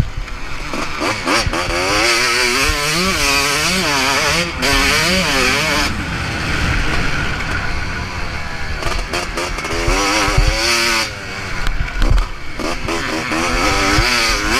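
A motocross bike's engine revving hard and falling away again and again as the rider accelerates, shifts and rolls off through the track's sections. Wind hiss runs under it, with a few knocks and low thuds, the loudest around ten to twelve seconds in.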